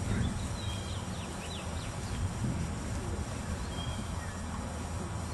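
A steady low rumble, with a few short, high bird chirps in the first two seconds and one more near the end.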